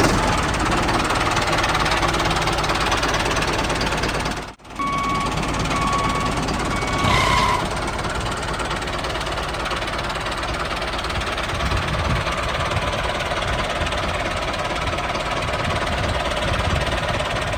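A small motorized machine running with a steady, dense rattling noise; the sound cuts out briefly about four and a half seconds in. A few short beeps sound shortly after the cut.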